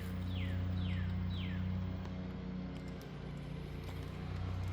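A songbird singing a series of four whistled notes, each sliding down in pitch, about two a second, over the first couple of seconds. A steady low hum runs underneath throughout and is the loudest sound.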